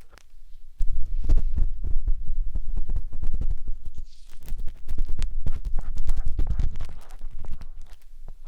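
Matchstick scraping and rubbing inside the silicone ear of a 3Dio binaural microphone: close, low rumbling handling noise with many small scratchy clicks.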